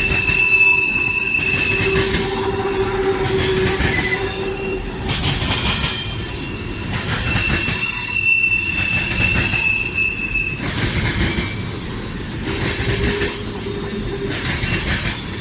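CSX freight train cars rolling past at close range, their wheels squealing against the rails in high, steady squeals that come and go over a continuous rumble of wheels on track.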